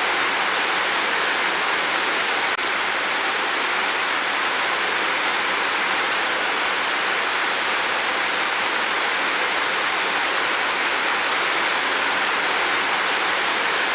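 Steady heavy rain: a dense, even hiss.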